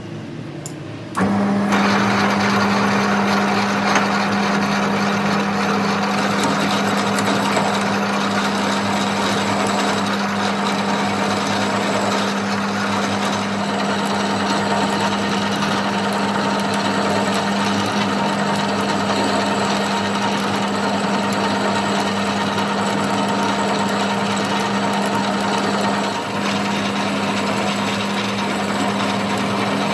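A workshop machine switched on about a second in and running steadily, a constant hum under a loud hiss, with a brief dip near the end.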